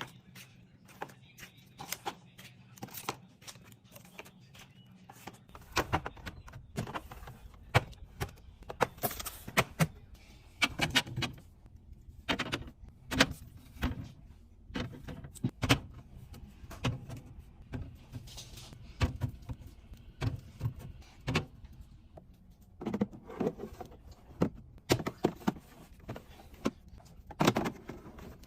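Food containers and packaging being handled and set down while a fridge is stocked: a run of irregular knocks, clicks and clinks with plastic rustling and crinkling in between.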